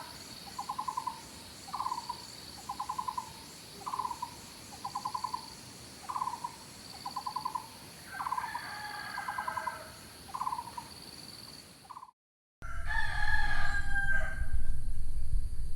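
Repeated animal calls, about one a second, alternating a short rattling trill and a quick falling note, over a faint high buzz that comes and goes. About twelve seconds in the sound cuts off abruptly, then a louder low rumble and a different whistled call follow.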